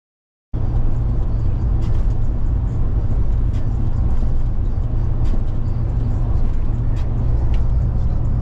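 Truck driving: a steady low rumble of engine and road noise with a few faint clicks over it, starting abruptly about half a second in.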